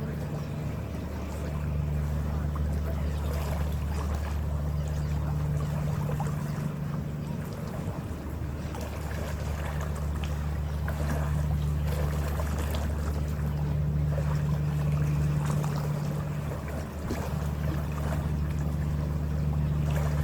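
Ferry engine running with a steady low drone, a second hum tone above it fading and returning every few seconds, under a rushing hiss of wind and water.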